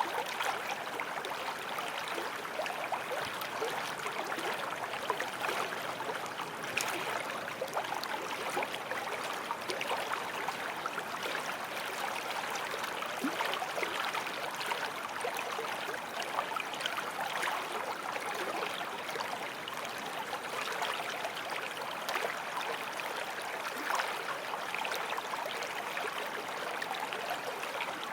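Forest stream flowing steadily over stones, a continuous rush of water flecked with small splashes and gurgles.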